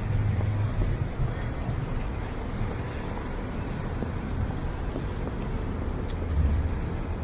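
Steady city street traffic noise, cars passing, with a deeper low rumble near the start and again about six seconds in.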